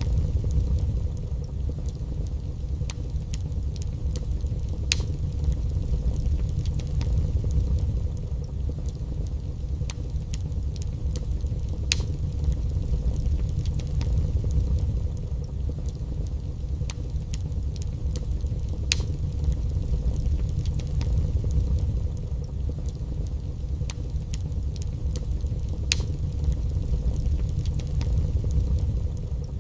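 Wood fire in a fireplace crackling, with sharp pops scattered irregularly, a few each second, over a steady low rumble.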